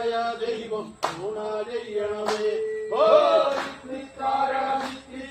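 Men singing a Kerala boat song (vanchipattu) in Malayalam, chant-like with long held notes, over sharp beats about every second and a quarter.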